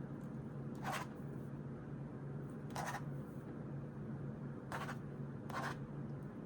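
Four short scratchy sounds of paper being worked on at a desk, spaced a second or two apart, over a steady low hum.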